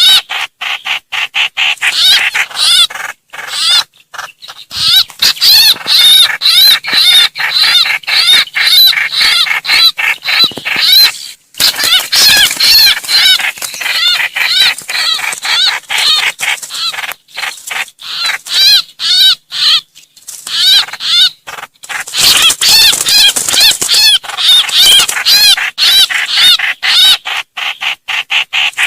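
Trao trảo bird distress and flock-gathering calls: a fast, continuous run of harsh arching notes, several a second, with only brief breaks. Such a recording is played as a lure for trapping trao trảo birds and greater coucals.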